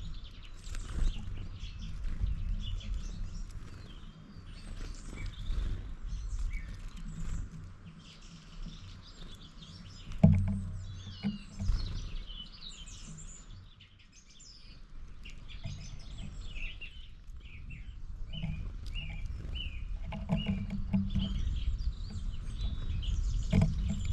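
Small birds chirping and twittering in short, quick phrases, over a low rumble, with one sharp loud knock about ten seconds in.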